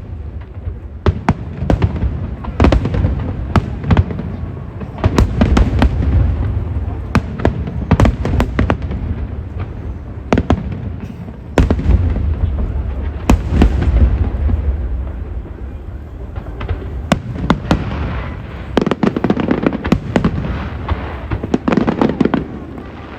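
Aerial fireworks shells bursting in rapid, uneven succession: many sharp bangs and cracks over a continuous low rumble of booms, with denser barrages several times.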